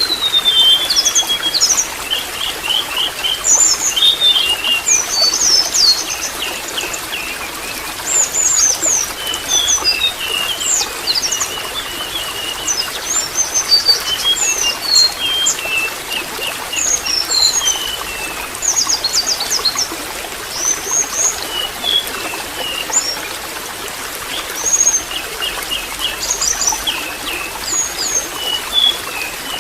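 Water trickling steadily, with small birds chirping and twittering in quick short phrases throughout.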